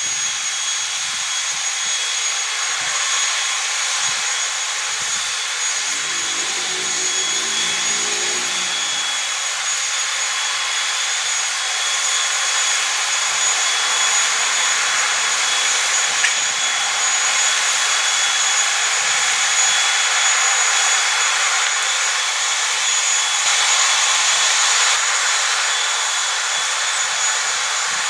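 Aircraft turbine engine running, a steady rushing noise with a high-pitched whine held on two steady tones, swelling slightly in loudness about halfway through and again near the end.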